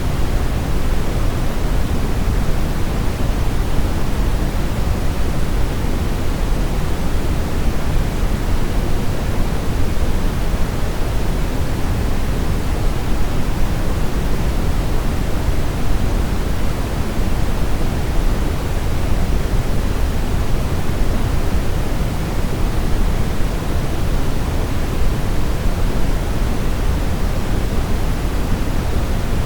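Steady brown noise: an even, deep rushing hiss, heaviest in the bass and falling away in the highs, with no change over time.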